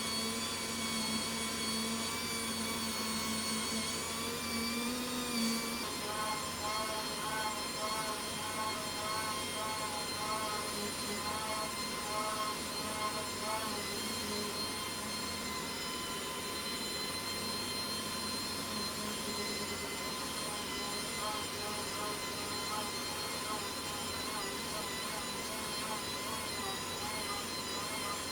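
Double-action sander running at low speed on the primer-surfacer of a car panel, over the steady noise of the paint booth's extraction fan. The sander's tone wavers for several seconds partway through as it works the surface.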